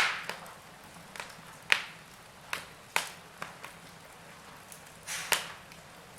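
Wood logs burning in a fireplace, crackling with sharp, irregular pops over a faint steady hiss; the loudest pop comes right at the start.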